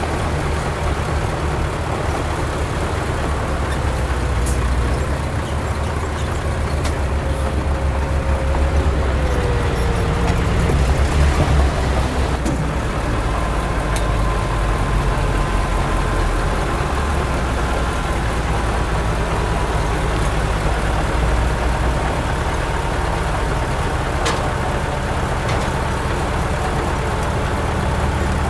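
Heavy diesel engine of construction machinery running under load, a steady low rumble that swells briefly partway through, with a faint whine above it.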